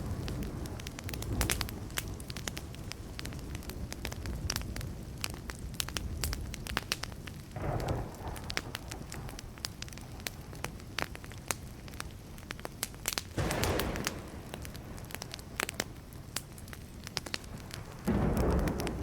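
Wood campfire crackling, with many sharp pops and snaps over a low steady burn. Three short, louder rushes of noise come about 8, 13 and 18 seconds in.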